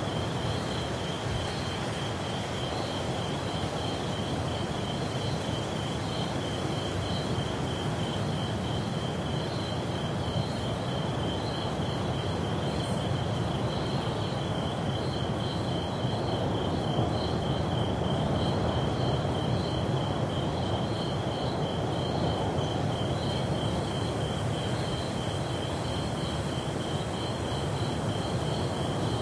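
Rainforest ambience: an insect chirping in a steady, even pulse, a few times a second, with a fainter second pulsing call above it, over a continuous low wash of ocean surf.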